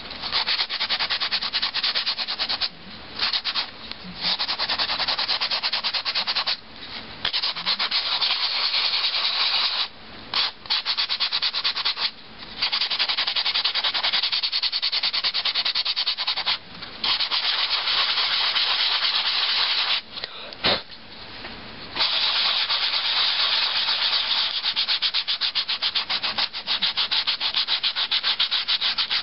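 High-grit sanding sponge rubbed back and forth in quick strokes over a rough paperclay doll, smoothing the surface, with short pauses every few seconds.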